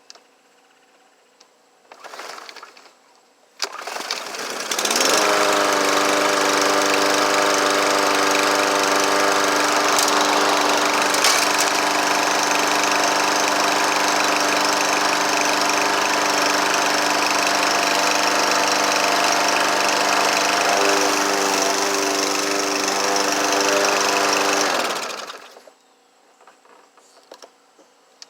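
Briggs & Stratton 550EX single-cylinder push-mower engine pull-started. It catches about five seconds in, runs steadily at speed for about twenty seconds, then is shut off and runs down. It starts and runs now that the valve clearances have been reset, which cures its no-start.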